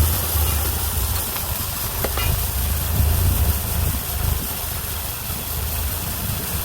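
The 31 hp engine of a homemade bandsaw mill running steadily, with a strong low hum that swells and eases, and a brief click about two seconds in.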